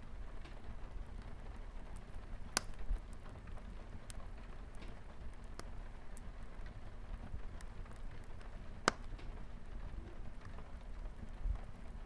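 Crackling wood fire over a steady patter of light rain on a window glass, with scattered small ticks and a few sharp, louder pops from the fire.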